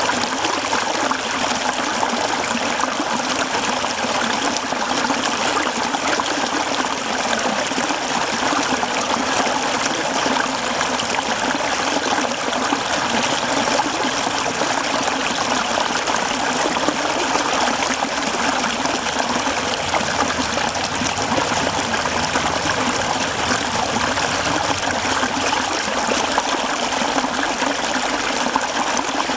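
A mountain stream running over rocks: a steady, even rush of water, unchanging throughout.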